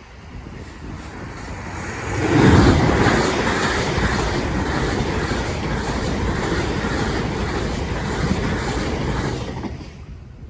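A twelve-coach Class 450 electric multiple unit train passing. It builds up, is loudest from about two and a half seconds in, holds steady for about seven seconds and fades away near the end.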